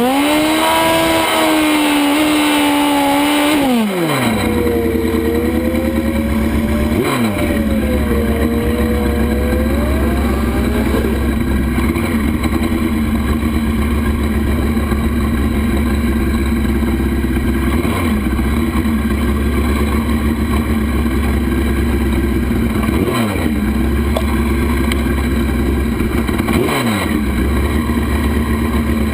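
Drag-racing motorcycle launching and accelerating hard, its engine note climbing, then dropping at each gear change several times, over a steady rushing noise.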